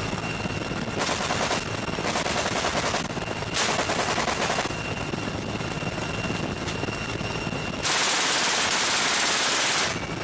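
Helicopter door gun, a heavy machine gun, firing in bursts over the steady whine and rotor noise of the helicopter: three short bursts in the first half, then a longer, louder burst of about two seconds near the end.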